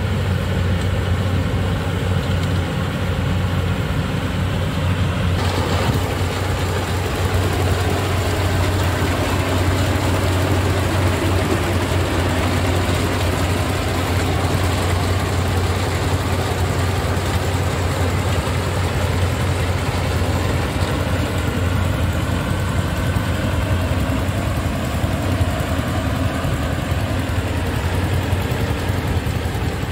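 Yanmar rice combine harvester's diesel engine and machinery running steadily with a deep hum. About five seconds in the sound grows fuller and brighter and stays so.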